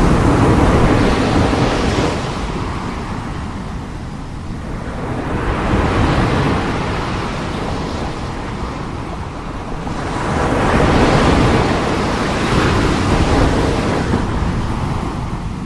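Strong sea waves rushing in and breaking, a heavy wash of surf that swells and ebbs in slow surges every few seconds, loudest a little past the middle.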